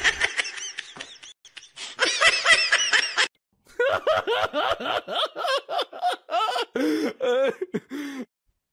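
Laughter in quick repeated bursts, breaking off briefly about three seconds in and then starting again.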